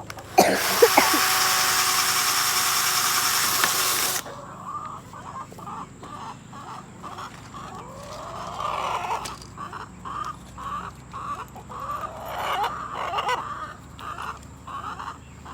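Chickens clucking over and over, short calls about two a second. They are preceded by a loud, steady rushing noise that starts with a few clicks and cuts off suddenly about four seconds in.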